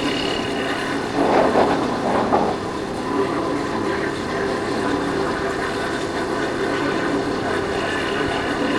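Yamaha Factor 150's single-cylinder four-stroke engine running at a steady speed while riding, under steady wind noise. There are a few brief louder surges of noise about one to two and a half seconds in.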